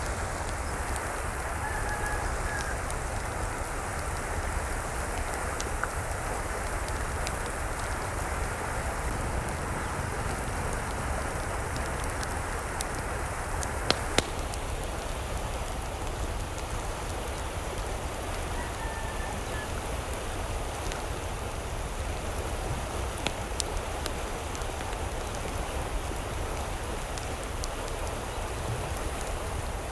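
Steady rushing water noise with a low rumble, dotted with faint sharp ticks and two close clicks about fourteen seconds in.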